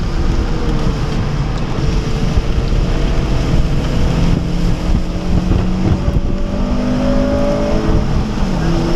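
2011 Honda Civic Si's 2.0-litre four-cylinder engine heard from inside the cabin while accelerating, its pitch climbing slowly, then dropping sharply near the end at an upshift. Steady tyre and road noise from the wet track runs underneath.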